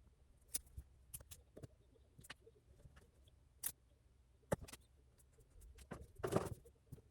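Faint, scattered small clicks and ticks at irregular spacing, with a short rustle about six seconds in.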